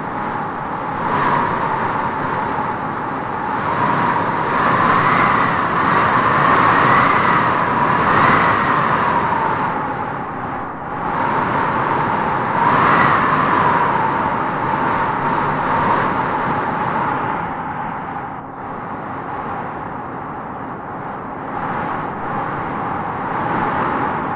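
Wind howling in gusts: a whistling tone that rises in pitch as each gust strengthens, over a steady rush of air. The strongest gusts come about five to nine seconds in and again around thirteen seconds.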